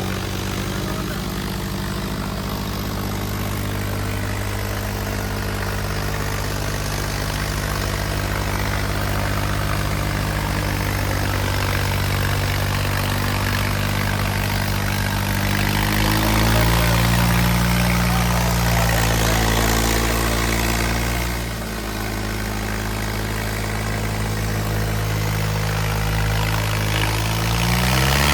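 Tractor diesel engines running hard under load as the tractors pull against each other in a tug-of-war. The engine note holds steady, rises in pitch and loudness about halfway through, drops briefly, then climbs again near the end.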